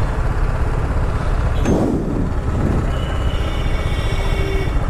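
TVS Apache RR 310's single-cylinder engine running while riding through city traffic, with heavy, steady wind rumble on the helmet-mounted mic; a brief higher-pitched sound, like a horn, about two seconds in.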